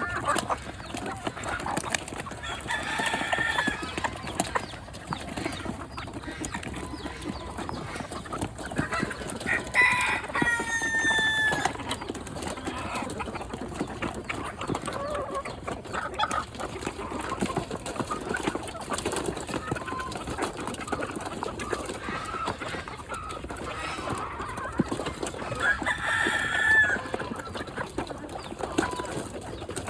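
A flock of chickens clucking and calling, with a longer, louder call about ten seconds in. Many small clicks run throughout, fitting the birds pecking at food.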